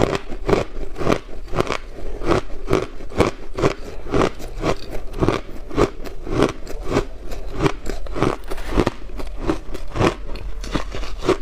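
Close-miked crunching of ice being bitten and chewed: a quick, even run of crisp crunches, about three a second.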